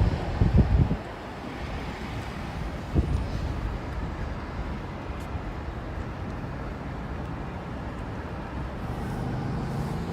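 Car on the road: steady low engine and road rumble, with a few dull thumps in the first second and one more about three seconds in.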